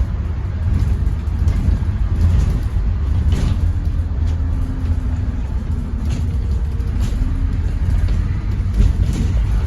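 Scania N230UD Enviro 400 double-decker bus running, a steady deep engine rumble with a few light rattles and a faint whine that comes in around the middle.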